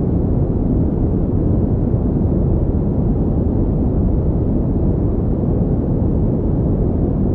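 Steady synthetic pink noise: an unchanging deep hiss, heaviest in the bass and dull in the highs, with no breaks or events.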